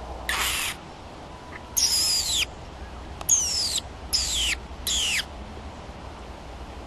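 A bird calling five times in quick succession, each call a short, hissy whistle that falls steeply in pitch.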